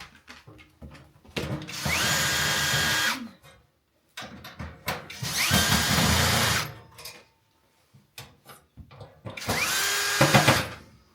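Power drill-driver run in three short bursts of a second or two each, every burst spinning up with a rising whine that then holds steady, with clicks and handling noise between: screws being driven out of the oven's panels.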